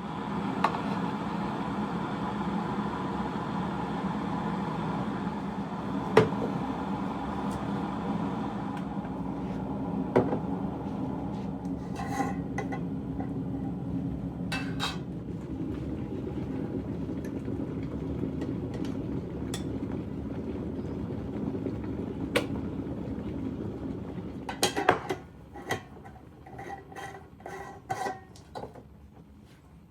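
A small motor runs steadily, with a few sharp clinks over it, and stops about 25 seconds in. A quick run of clinks and knocks of dishes and utensils follows near the end.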